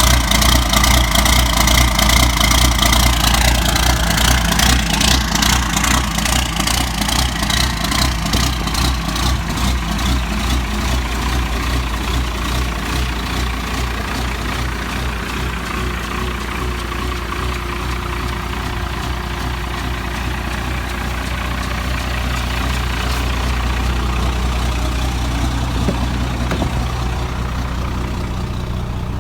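Cummins 5.9-litre 12-valve inline-six turbo diesel running through a 4-inch straight pipe, idling steadily with an even rapid exhaust pulse after a cold start at 10° without the block heater. It eases slightly quieter over the first half.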